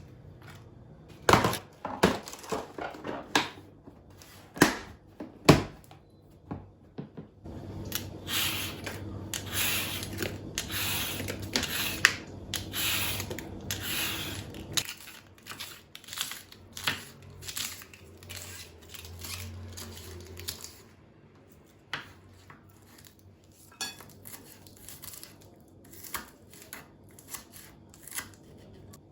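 Kitchen work sounds: dishes and utensils knocking and clinking at irregular moments, with a longer stretch of continuous rough noise from about eight to fifteen seconds in.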